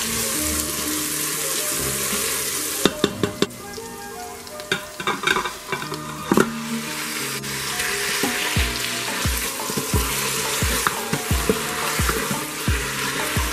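Onions and whole spices sizzling in hot oil in an Instant Pot's stainless steel inner pot, stirred with a spatula. About three seconds in the sizzle drops sharply as raw chicken pieces go in, with a few knocks against the pot, then the frying builds back up under stirring.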